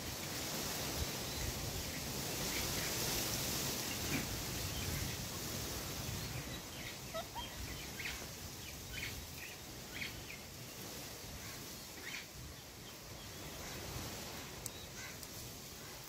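Steady outdoor background noise, with short, high bird chirps scattered through the middle.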